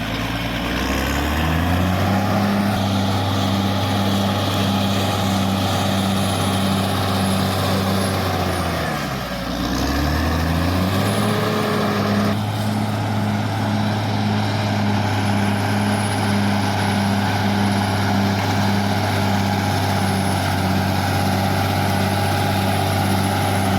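Caterpillar D6R XL bulldozer's diesel engine running steadily at high revs. Its pitch sags and climbs back twice, once right at the start and again about nine seconds in.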